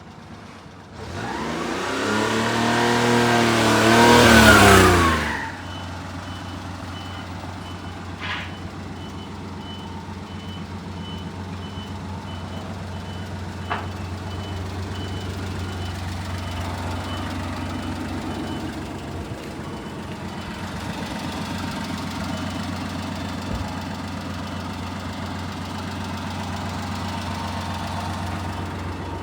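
1997 Honda Acty kei truck's 660 cc three-cylinder engine starting and revving for a few seconds, rising then falling in pitch. It then settles into a steady idle.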